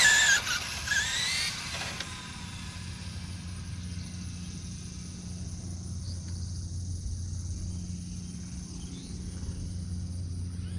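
RC drag car launching off the line: a sudden high-pitched motor whine that rises in pitch as it accelerates for about a second and a half, then fades as it runs away. A steady low hum carries on underneath afterwards.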